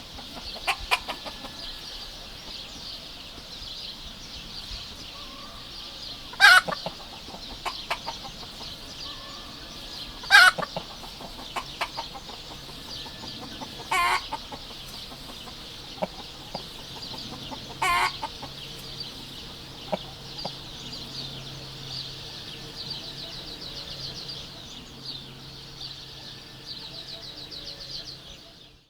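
Chickens clucking, with a short loud call about every four seconds and softer clucks between, over a steady high-pitched chirring background.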